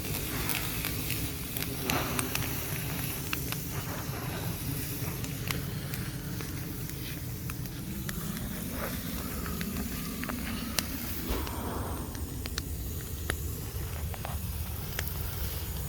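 Bonfire of Christmas trees burning, a steady rushing noise with many short sharp crackles and pops scattered throughout.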